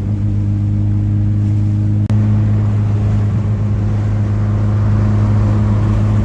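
Car engine droning steadily at cruise with road noise, with a single sharp click about two seconds in.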